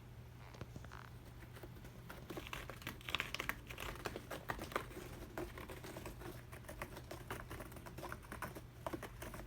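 Rapid, irregular light tapping and scratching of kittens at play, their claws and paws clicking on a hard surface. It picks up about two seconds in.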